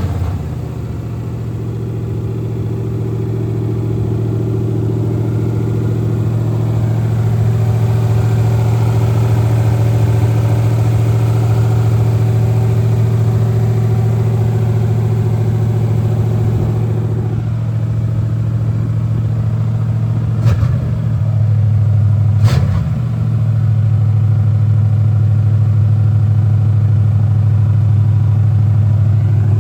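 Freshly rebuilt Chevy 350 small-block V8 running at a steady idle on its first start after the rebuild. Two sharp knocks come about two-thirds of the way through.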